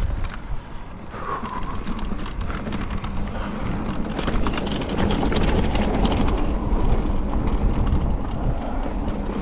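Wind buffeting the action camera's microphone while an e-mountain bike rattles and clatters over a rough, wet trail on a descent, getting louder about four seconds in.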